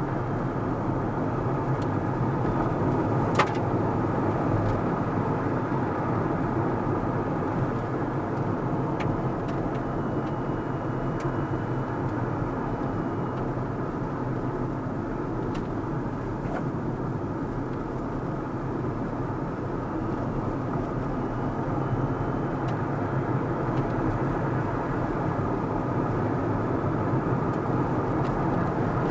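Car driving along a road: a steady mix of tyre and engine noise, with one sharp click about three and a half seconds in.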